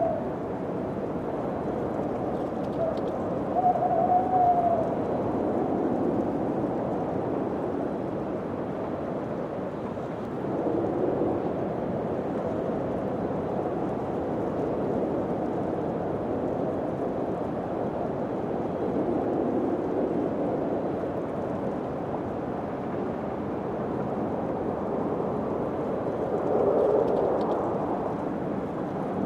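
Steady wind blowing through a spooky ambience mix, with a brief high moaning tone about three to four seconds in.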